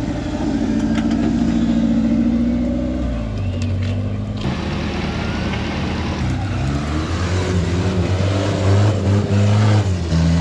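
Off-road 4x4's engine running, then revved up and down repeatedly from about halfway through as the rig is driven on the rocks.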